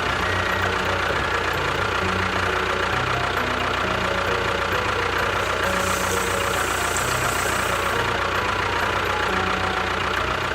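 A small engine or motor running steadily, with a constant whine, stopping near the end.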